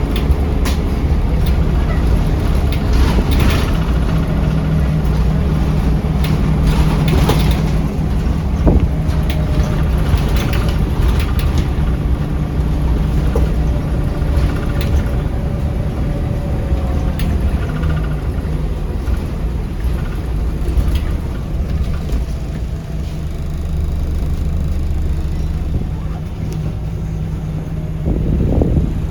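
Scania L94UB city bus heard from on board while under way: the engine runs steadily with its pitch rising and falling, over road noise and scattered rattles from the body.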